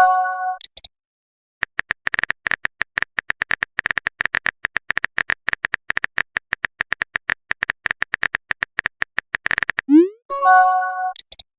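Phone keyboard typing clicks, rapid and uneven, for about eight seconds. Then a quick rising swoosh and a short multi-tone chime, a message-sent or notification sound; the same chime also rings out at the very start.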